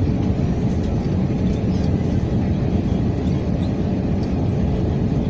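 Steady low rumble of engine and air noise inside the cabin of an Airbus A321 airliner, with a faint steady hum above it.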